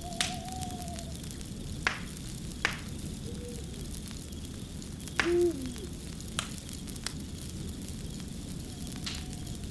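Wood fire crackling over a steady hiss, with irregular sharp pops about every second or two. A few short, low hooting tones that fall in pitch come through, the loudest about five seconds in along with a pop.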